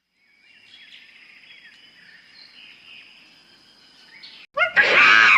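Faint high-pitched chirping of outdoor wildlife with a steady thin whine. Near the end a loud animal call cuts in, pitched and arching up and down.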